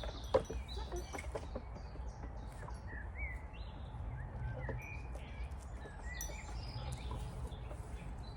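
Birds chirping in short scattered calls, with a few clicks and taps in the first second or so over a steady low hum.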